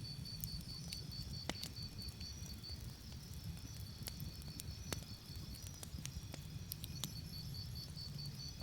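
Campfire crackling with scattered sharp pops over a steady low rumble. A cricket chirps in rapid, even pulses, stops about a third of the way in, and comes back near the end.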